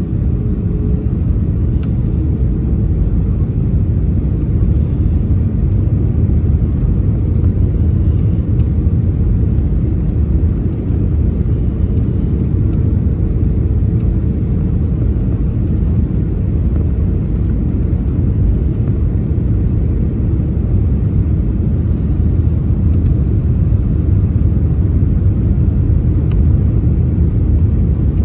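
Airliner cabin noise: a steady low rumble of engines and airflow.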